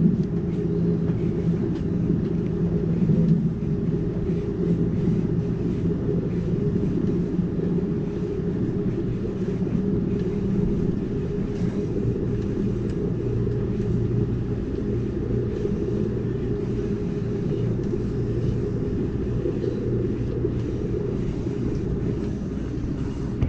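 Amtrak Cascades passenger train running, heard from on board: a steady low rumble with a faint hum underneath.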